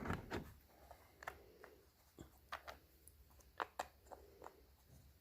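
Scattered light clicks and taps, several sharp ones spread over a few seconds, from an armrest being handled and fitted back onto a pickup truck's interior door panel.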